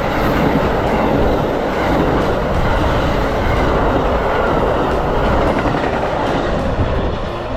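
Amtrak passenger train passing close by: a loud, steady noise of its cars' wheels running on the rails.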